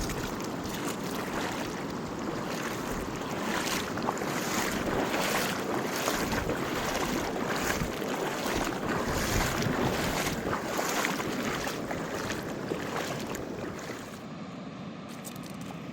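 A fast mountain river rushing loudly. The noise swells in the middle and eases near the end.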